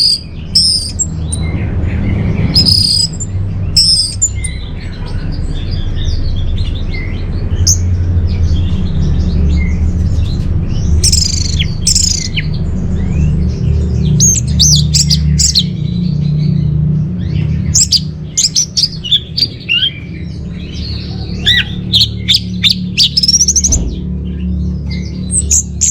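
Orange-headed thrush (anis merah) song: a busy run of short, varied high chirps and whistled notes, played as a lure and tutor track for caged birds, over a steady low hum.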